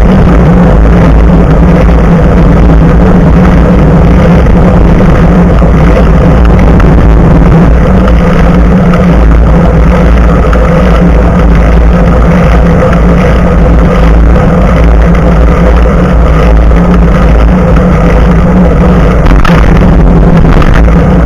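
Loud, steady rush of wind and front-tyre rolling noise on a moving bicycle, picked up by an action camera's own microphone mounted just above the front tyre, with a steady hum running through it.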